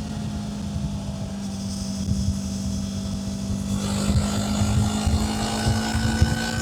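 Kawasaki Z500's parallel-twin engine running while riding, its note holding steady and then climbing gently from about four seconds in as it accelerates, over a low rumble of wind on the microphone.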